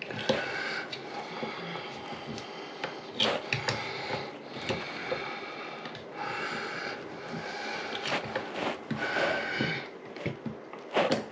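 Irregular clicks, taps and short scrapes of faucet parts being handled and fitted by hand.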